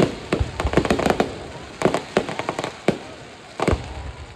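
Aerial fireworks going off in a rapid, irregular string of bangs and crackles, with heavier booms near the start and about two, three and three and a half seconds in.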